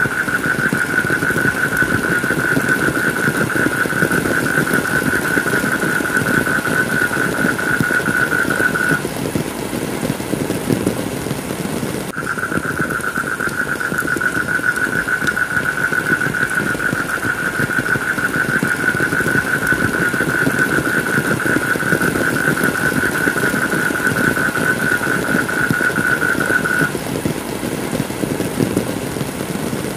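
Steady heavy rain, with a continuous high-pitched whine over it that stops about nine seconds in, comes back about three seconds later, and stops again near the end.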